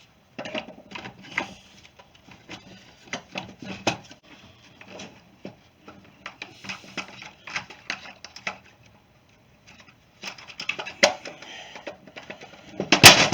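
Irregular clicks, taps and knocks of hard plastic parts and screws being handled as a string trimmer's starter cover is fitted back on, with a louder cluster of knocks near the end.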